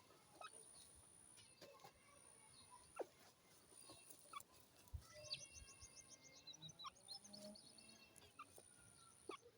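Faint, scattered bird calls: short notes, a few sliding downward, and a quick run of high chirps about five seconds in.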